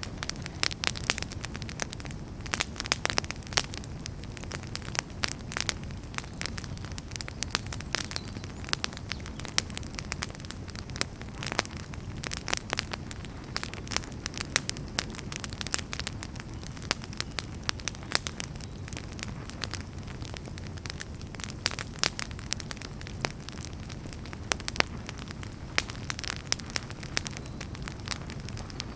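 Wood campfire burning, with a steady low rumble of flame and frequent sharp, irregular crackles and pops from the burning firewood.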